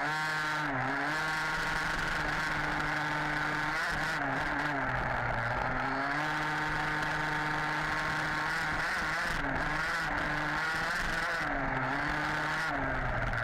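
HPI Baja 5B 1/5-scale RC buggy's two-stroke petrol engine running hard, held at steady high revs. Several times the revs drop briefly and climb back as the throttle is lifted and reapplied.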